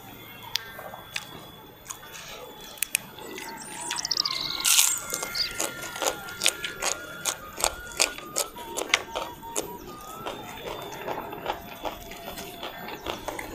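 Close-up chewing of raw long beans and other raw lalapan vegetables: a quick, irregular run of sharp crunches, thickest from about five seconds in. About four seconds in there is a brief high falling chirp.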